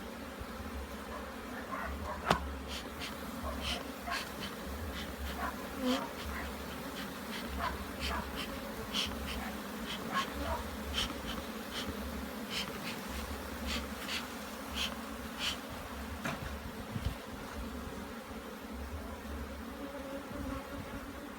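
Honey bees buzzing around an open hive, a steady drone, with a scatter of short sharp clicks through the middle of it.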